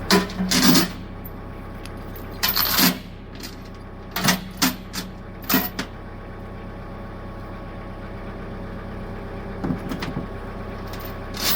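Four-wheeler (ATV) engine idling steadily, with several loud metallic clanks and rattles at irregular moments: near the start, about two and a half seconds in, a cluster around four to six seconds, and again near the end.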